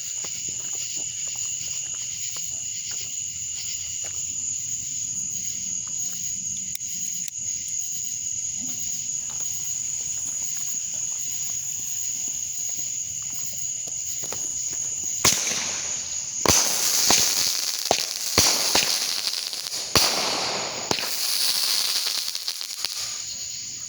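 Crickets chirring in steady high tones for about fifteen seconds. Then a small consumer firework cake (Showtime Fireworks 'Short and Sweet') fires for about eight seconds: hissing launches and a string of sharp cracks and bangs, a couple of shots failing to break.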